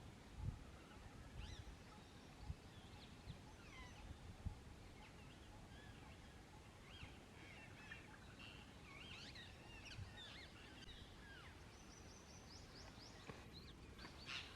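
Faint chorus of bird calls: many short chirps and whistled glides overlapping, with a few low thumps in the first few seconds.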